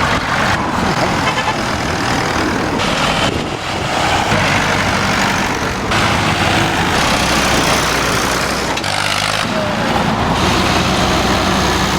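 Tractor engine running steadily on the move along a road, its low note shifting every few seconds, under loud rushing noise.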